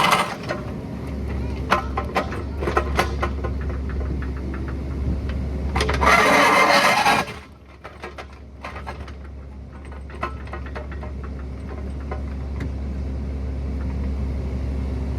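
Excavator's diesel engine running with a steady low hum, with scattered knocks and clatter of the bucket working rock. About six seconds in comes a loud noisy rush lasting just over a second, then the engine sound drops away briefly and builds back up.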